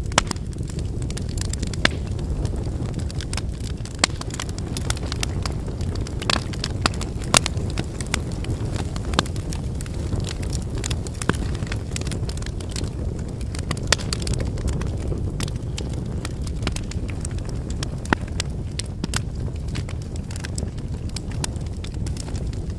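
Wood fire burning: a steady low rush of flames with many sharp, irregular crackles and pops from the burning firewood.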